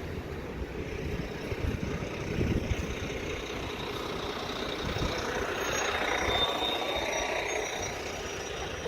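Steady rumble of road traffic, with faint high tones in the second half.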